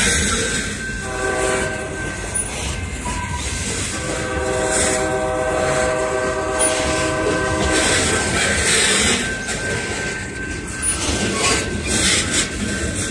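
Freight train of gondola cars rolling past, with steady wheel-on-rail noise, clicking over rail joints and a thin, steady high squeal. A locomotive horn sounds briefly about a second in, then again for about four seconds starting around four seconds in.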